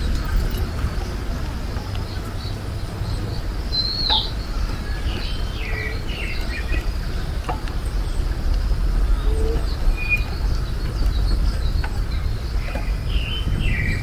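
Wild birds chirping and calling here and there, with a clear falling whistle about four seconds in, over a steady low rumble.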